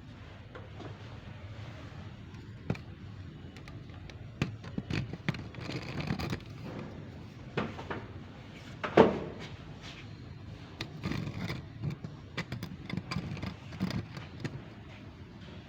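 Scattered knocks, clicks and clatter of hard objects being handled, with one louder knock about nine seconds in.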